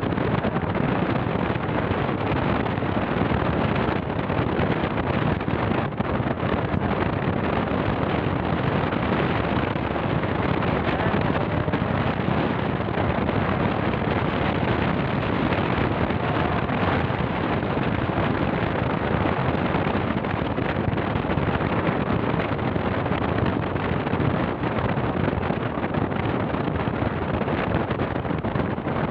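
Steady wind rushing over the microphone, with a vehicle running along underneath.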